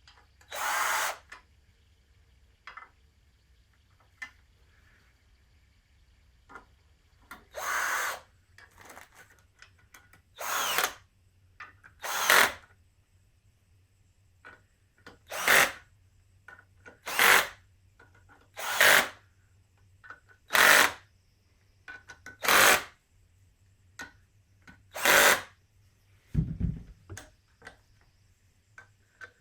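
Handheld power tool running in about ten short bursts, each under a second, with pauses of one to three seconds between them. A dull low thump comes near the end.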